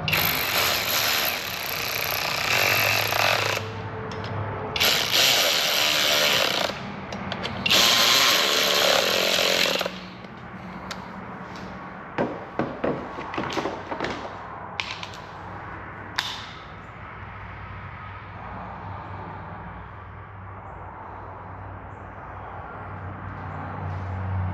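A power tool runs in three bursts of a few seconds each, followed by scattered sharp clicks and knocks of tools against metal over a low steady hum.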